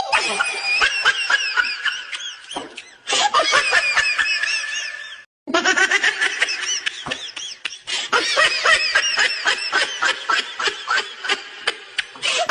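High-pitched laughter in rapid giggling bursts, breaking off briefly twice, about three and five seconds in.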